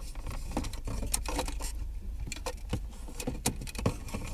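Irregular clicks and light rattling of a plastic dash trim bezel and its wiring plugs being handled, over a low steady hum.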